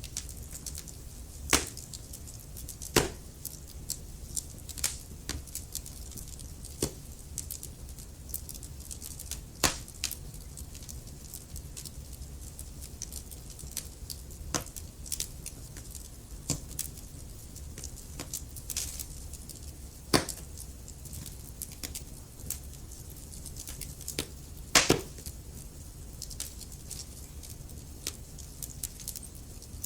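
Wood fire crackling in a fireplace: irregular snaps and pops, a few sharper ones standing out, over a steady low rumble.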